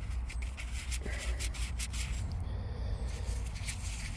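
Fingers rubbing soil off a freshly dug coin, a run of quick scratchy strokes over a steady low rumble.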